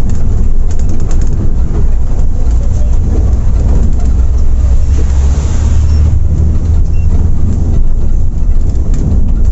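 Volvo B8R coach on the move: a steady low engine and road rumble, with a brief swell of hiss about five seconds in.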